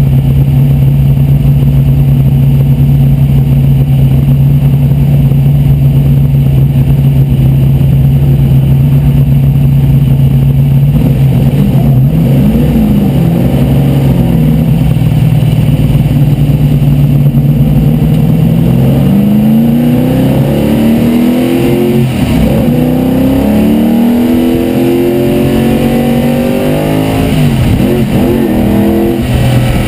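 De Tomaso Pantera race car's V8 engine heard from inside the cabin, idling steadily. About eleven seconds in, the revs start to waver as the car creeps forward. From about two-thirds of the way through, it accelerates hard, rising in pitch through several upshifts.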